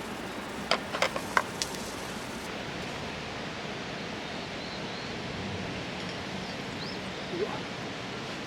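A steady rushing hiss, with a quick run of sharp light clicks or taps about one to one and a half seconds in.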